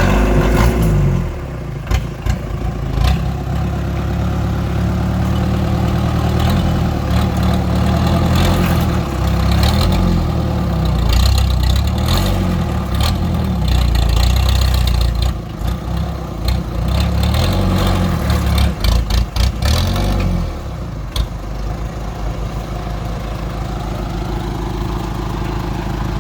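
Diesel engine of a homemade loader built from an old Toyota Dyna Rino truck, running and revving up and down, with a run of sharp knocks toward the end of the revving. About twenty seconds in it settles to a steady idle.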